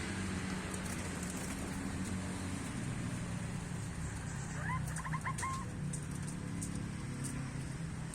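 A steady low hum runs throughout. About five seconds in, a bird gives a brief run of quick, rising chirps lasting under a second.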